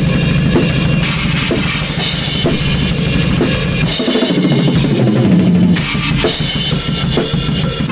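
Loud band music with a full drum kit, kick, snare and cymbals, hitting about twice a second under a dense wall of instruments; it starts abruptly.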